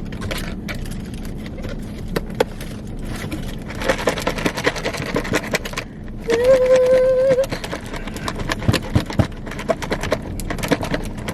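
Eating a salad: crunching and chewing, with plastic takeout-container and fork clicks, over a faint steady hum inside a parked car. A short steady hummed note sounds just after the middle.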